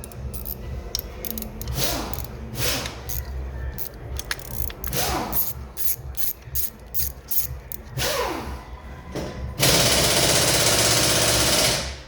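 Workshop hand-tool work with a run of sharp clicks and several short falling whirs, then a cordless battery impact gun hammering for about two seconds near the end, which the mechanics find not powerful enough for the job.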